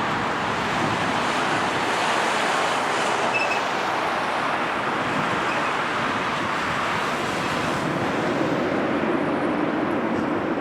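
Jet airliner engines, a steady, even roar with a slight swell in the middle, as a plane passes close by on take-off or landing.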